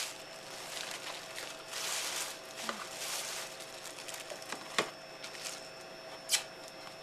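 Packaging being handled during an unboxing: two short spells of rustling, then sharp clicks about five seconds in and again near the end.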